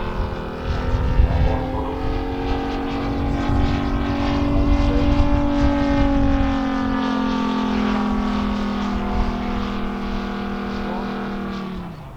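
MOKI 250 five-cylinder radial engine of a large scale RC airplane running in flight, its drone rising slightly in pitch and then slowly falling as the model passes. The sound drops away sharply near the end.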